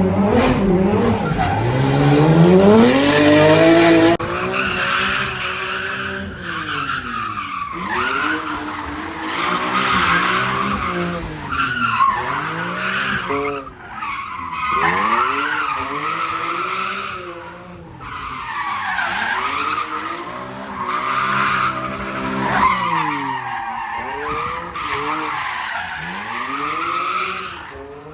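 A drift car's engine revving hard while its tyres squeal through a slide. After an abrupt cut about four seconds in, the engine pitch swings down and back up again and again, every two to three seconds, as the car keeps drifting.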